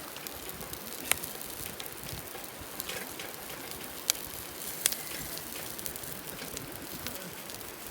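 Wood campfire crackling steadily, with a few sharp pops.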